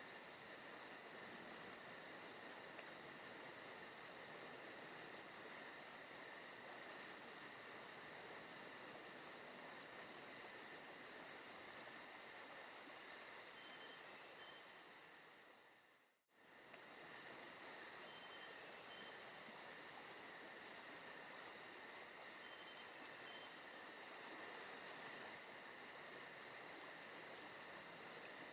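Forest ambience of crickets and other insects chirping steadily: a fast, even high trill over a steady hiss. The sound fades away for a moment about halfway through and then comes straight back.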